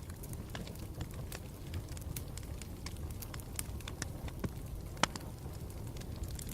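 Campfire burning: a steady low rumble of the flames with irregular sharp crackles and pops from the burning wood, one louder pop about five seconds in.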